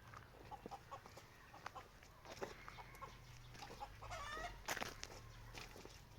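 Faint animal calls with scattered small knocks and clicks; one short wavering call about four seconds in.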